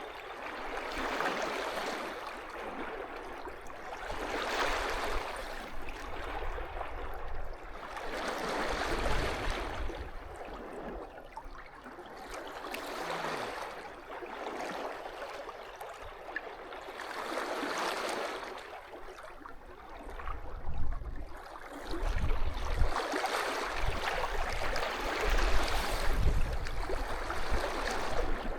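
Sea waves washing onto the shore, a rushing swell roughly every four seconds. Uneven low buffeting rumbles join in about two-thirds of the way through.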